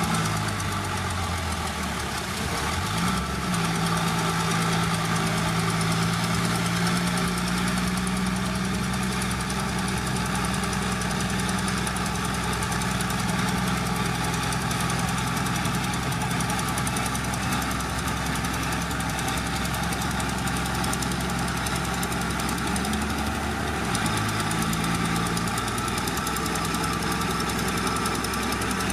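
Heavy earthmoving machine's diesel engine running under load. Its note rises about three seconds in and holds steady, then shifts up and back down briefly near the end.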